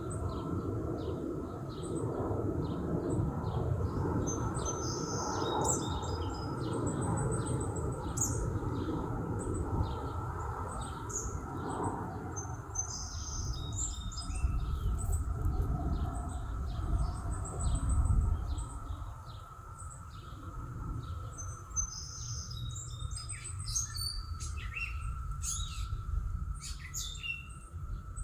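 Small birds chirping and calling in short, scattered high notes over a steady low rumble of outdoor background noise, with a faint steady high hum beneath the birdsong.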